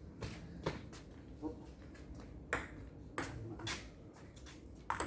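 Table tennis ball being struck back and forth in a rally, a string of sharp, irregularly spaced clicks as it hits the bats and bounces on the table.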